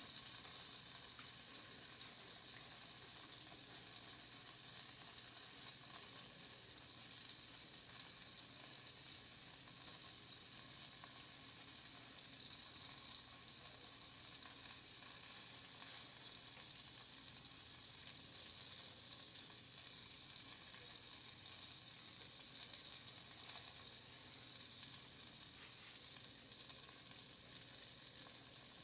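Onions frying in a skillet of avocado oil and butter: a steady sizzle that slowly dies down.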